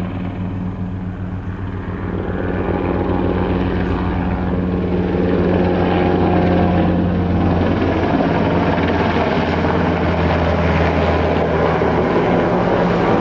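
Helicopter flying overhead: a steady engine tone with rapid rotor pulsing, growing louder over the first several seconds, then holding loud and steady.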